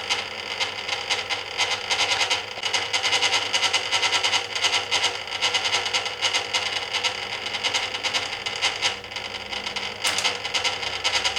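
Inside the stainless steel drum of a 1980 Hoover Keymatic A3112 washing machine, water splashing and dripping with an irregular patter while the drum rests between tumbles in the wash, no motor hum.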